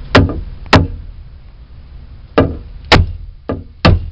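A hammer knocking a staple the rest of the way into a wooden board: six sharp strikes, loosely in pairs.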